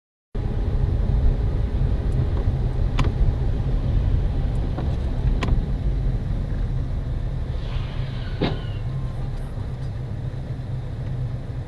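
A car driving, recorded by a dashboard camera: a steady low rumble of engine and road noise, with three short sharp clicks or knocks spread through it.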